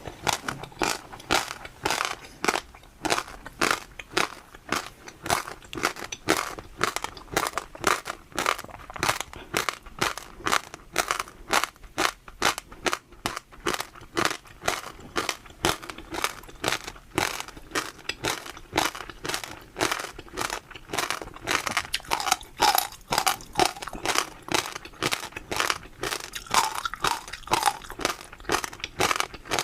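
Close-miked crunchy chewing: a steady run of rapid, even crunches, about three to four a second.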